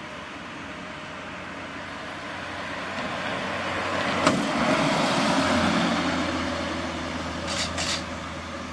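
A truck driving past, its engine and tyre noise growing louder to a peak midway and then fading, with a steady low engine hum. A sharp click comes about four seconds in, and two short bursts of noise come near the end.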